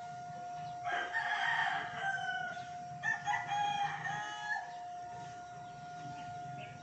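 A rooster crowing, starting about a second in and lasting a few seconds, with a steady faint hum underneath.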